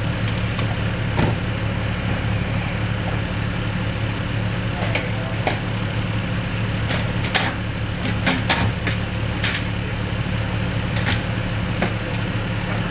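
A motor vehicle engine idling steadily, with scattered sharp clicks and knocks over it, more of them in the second half.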